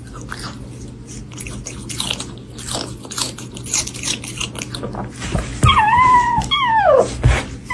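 A small animal chewing and crunching food with many short crackly bites, then, near the end, two loud whining calls, the second sliding down in pitch.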